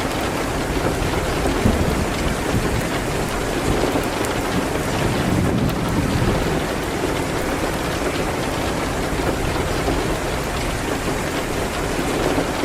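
Steady rain hitting a window, an even wash with a low rumble underneath and scattered faint ticks of drops.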